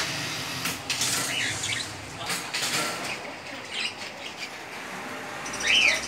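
Small caged birds chirping now and then, with one loud chirp near the end, over a few short rustling sounds in the first half.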